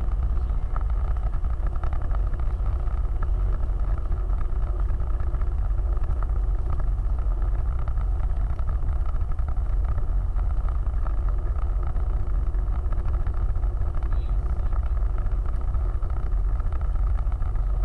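Off-road vehicle running steadily: an even, low engine and driving drone that holds without change.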